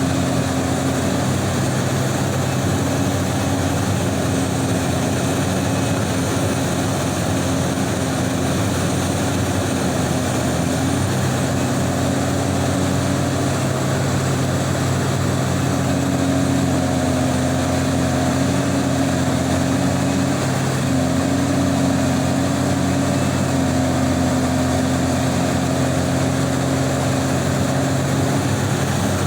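Liebherr R 984 hydraulic excavator's diesel engine running steadily at working speed, its drone shifting slightly in pitch every few seconds.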